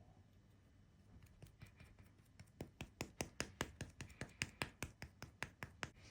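Carved seal being dabbed rapidly and repeatedly onto seal paste (inkpad) to re-ink it for a second impression: a run of light, quick taps, about four or five a second, growing stronger after the first couple of seconds.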